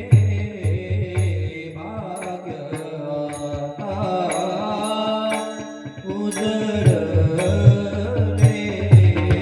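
Devotional kirtan music: a sustained melodic accompaniment over a beat of low drum strokes and sharp cymbal-like clicks. The drumming drops out for a few seconds in the middle while a wavering melody carries on, then comes back.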